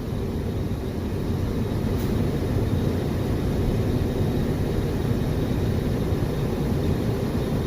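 Steady low engine and road drone heard from inside a semi-truck cab while driving on a snow-packed road, with a faint click about two seconds in.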